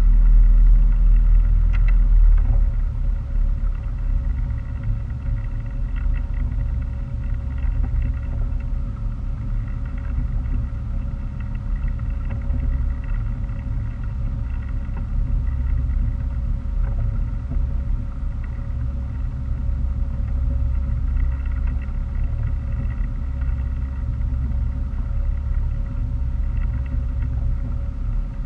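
Motorboat engine running steadily under way, its sound mostly low-pitched, with faint steady tones above it; a little louder for the first two seconds or so, then settling to an even level.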